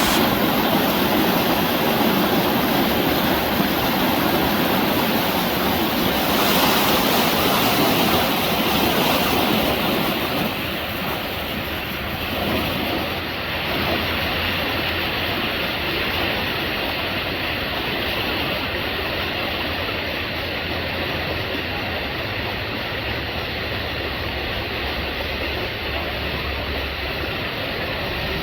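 Rapid creek water rushing steadily over rock, a continuous even rush that eases a little after about ten seconds.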